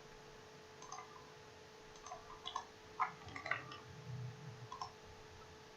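Faint, scattered computer mouse and keyboard clicks, a dozen or so irregular ticks, over a faint steady electrical hum.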